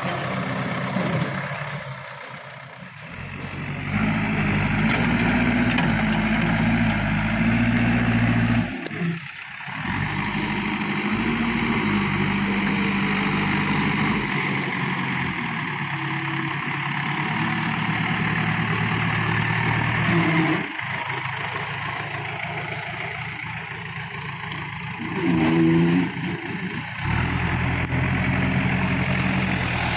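Diesel engine of heavy machinery running under varying load, its speed rising and falling, with a few abrupt short drops in level.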